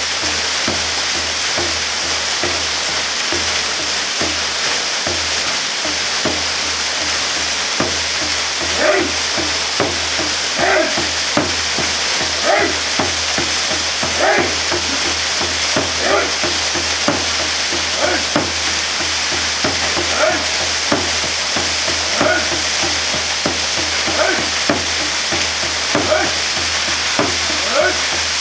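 Waterfall water pouring and splashing in a steady, loud rush. From about eight seconds in, a short sound recurs over it roughly every two seconds.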